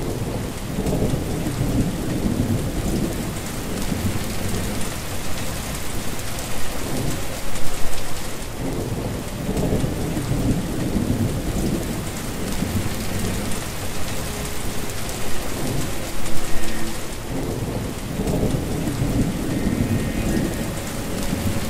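Heavy, steady rain pouring onto water, with low rolling rumbles of thunder that swell and fade, the loudest about 8 and 16 seconds in.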